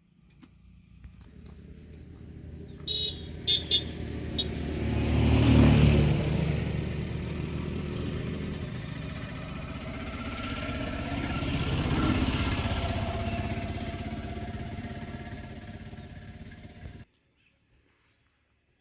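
Motor vehicles passing on a road, each engine swelling as it approaches and fading, with a few short high beeps about three to four seconds in. The sound cuts off suddenly near the end.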